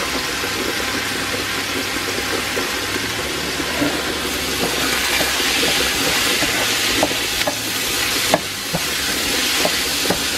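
Rice and diced carrot sizzling as they are sautéed in oil in a metal pot, stirred with a wooden spoon. The frying grows louder about halfway through, and in the second half there are several light knocks of the spoon against the pot.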